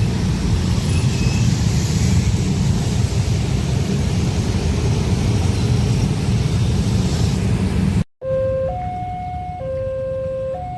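A train passing close by with a loud, steady rumble. About eight seconds in it cuts off suddenly. A clean two-note tone follows, alternating between a lower and a higher pitch about once a second, like a hi-lo siren.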